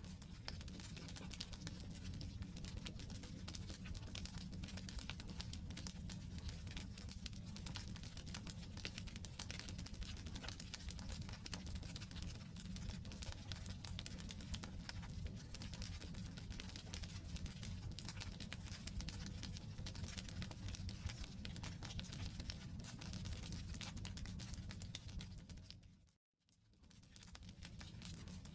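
Wood campfire burning, a steady dense crackle of small snaps and pops over a low rumble of the flames. About 26 seconds in it fades out to silence for a moment and fades back in.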